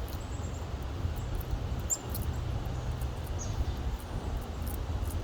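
Steady low outdoor rumble, with a few short, high-pitched bird chirps: a short run just after the start, one about two seconds in and one about three and a half seconds in.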